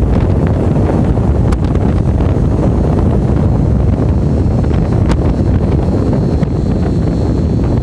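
Steady wind rushing and buffeting over the microphone of a moving motorcycle, with the ride's engine and road noise underneath.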